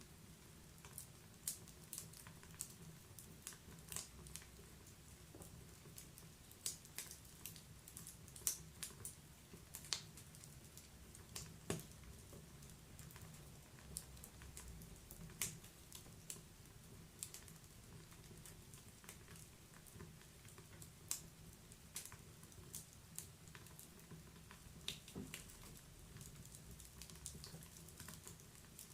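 Wood fire in a fireplace crackling: irregular sharp pops and snaps of burning logs, some louder than others, over a faint low steady rumble of the flames.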